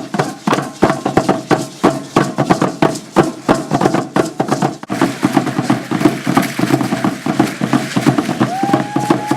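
Ceremonial dance percussion: drumming with a dense run of rapid, irregular strikes. Near the end, a pitched tone slides up and then holds.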